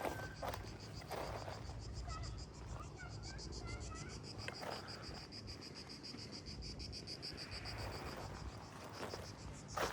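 Cicadas in the pines sing in a steady, fast-pulsing high drone, with a few scattered footsteps.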